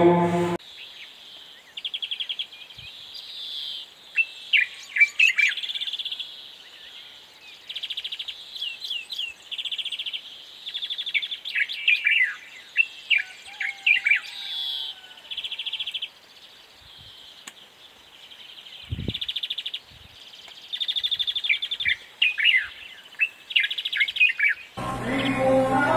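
Birds chirping, with short rapid trills every second or two and quick sharp chirps between them.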